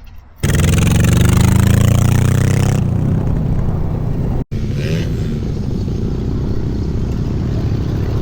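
Small pit bike engine accelerating hard, its pitch climbing for about two seconds, then running on at a steadier pitch as the bike rides along. The sound cuts out for an instant about halfway through.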